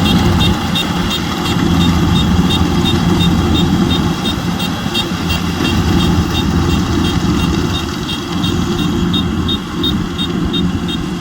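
Rice combine harvester's engine running steadily, with a regular high ticking from the machinery at roughly two to three ticks a second.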